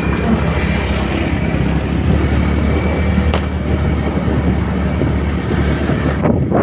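TVS Ntorq scooter running steadily while riding, its low engine hum under wind rushing over the microphone. A single sharp click about three and a half seconds in.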